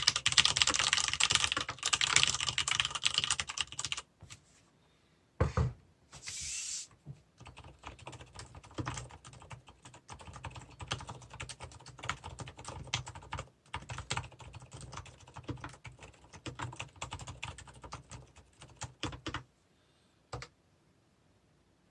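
Fast typing on a mechanical keyboard with tactile brown switches: loud, dense keystrokes for about four seconds, then after a short pause and a single thump, softer, more muted typing that stops near the end.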